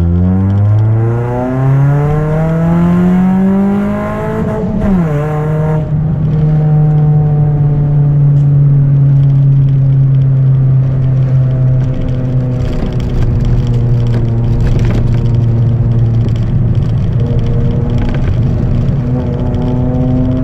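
Chevrolet Celta 1.0 four-cylinder engine with a 4x1 header and a straight two-inch exhaust without mufflers, loud as it accelerates: revs climb for about four and a half seconds, drop sharply at a gear change, then hold nearly steady at cruise, easing a little and picking up again near the end.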